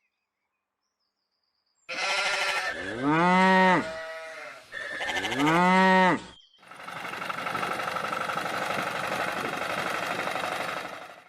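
Two drawn-out cow moos, each rising then falling in pitch, about two seconds apart over a noisy background. About six and a half seconds in they give way to a steady mechanical rattle that lasts about five seconds.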